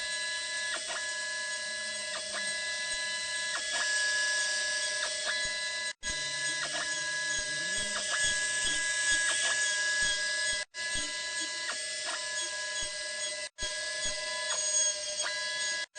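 DIY CNC machine with a home-built rotary 4th axis running under its stepper motors: a steady mechanical whine of several held tones over a hiss, with small repeating ticks. The sound cuts out abruptly for a moment three times.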